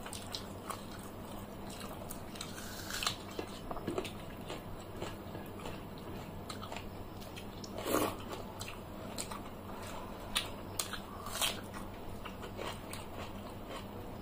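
Close-miked eating: chewing and biting into fried fish and mixing watered rice by hand, with soft crunches and wet clicks. A few louder bites stand out, the loudest about eight seconds in.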